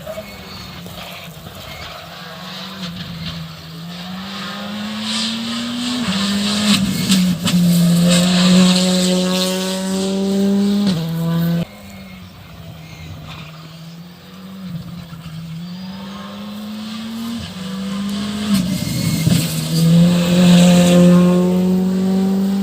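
Rally cars accelerating hard along a stage, engine pitch climbing and falling back with each upshift as a car approaches and passes close by. Midway the sound cuts off abruptly, then a second car builds up in the same way to a loud pass.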